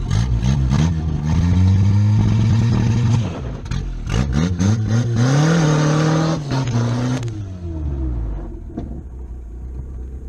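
Carbureted Toyota Celica engine revving up twice, its pitch climbing over a few seconds each time, then dropping back to a steady idle.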